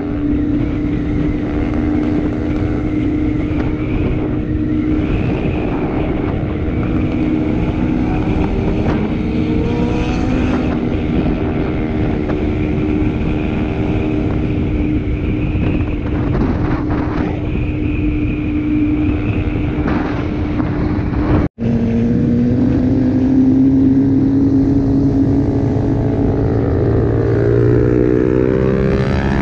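Suzuki GSX-R 750's inline-four engine running at steady revs under way, with wind rush on the microphone. After an abrupt break about two-thirds of the way through, the engine note sits lower and slowly climbs.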